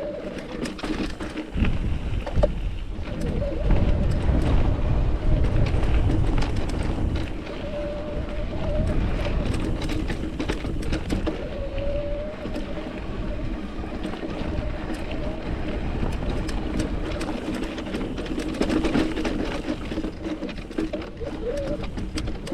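Mountain bike riding over rocky singletrack: wind buffeting the microphone with a low rumble, heaviest a few seconds in, over frequent clicks and rattles from the bike and tyres on rock.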